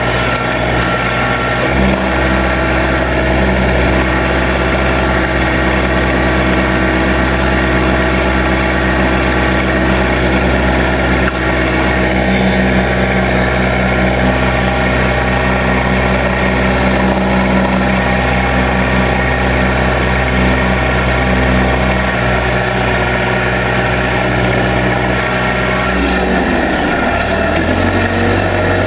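Case 580B backhoe engine running steadily at working throttle. Near the end its speed sags and settles lower.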